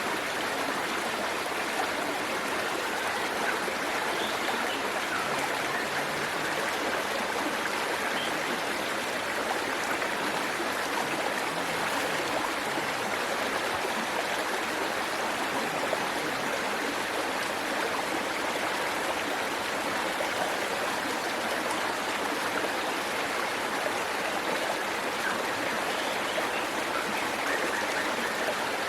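Waterfall and stream water rushing and splashing steadily over rocks.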